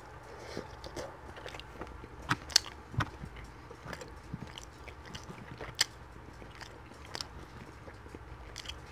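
Close-miked chewing and mouth sounds of a person eating chicken shawarma with rice and fries, with a few sharp clicks of a plastic fork, several between two and three seconds in and another near six seconds.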